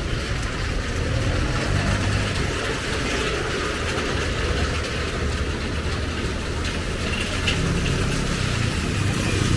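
Motor vehicle engine running close by with a low, steady rumble, over a constant hiss of street noise.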